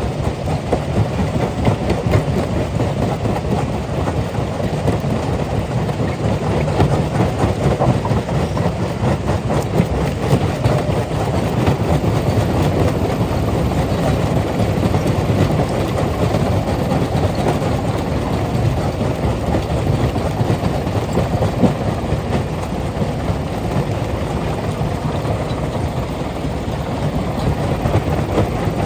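Rock crusher running under load, with a steady low rumble and a dense, continuous clatter of stone being broken and tumbling through the machine.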